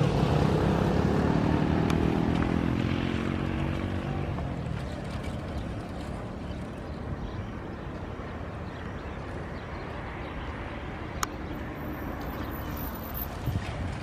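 Airbus A319 airliner's jet engines at takeoff power just after lift-off, their drone falling in pitch over the first few seconds, then fading to a distant rumble as the aircraft climbs away.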